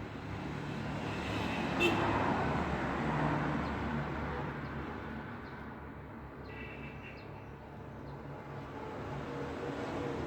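Road traffic noise: a steady rumble of vehicles passing, with one swelling past about two seconds in and the noise building again near the end.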